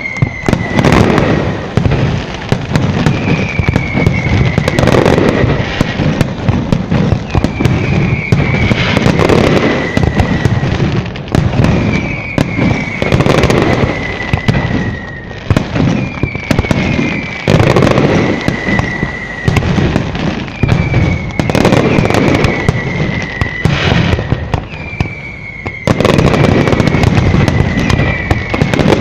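Fireworks display with continuous crackling and bangs, and a short falling whistle about every four seconds. A louder, denser barrage starts near the end.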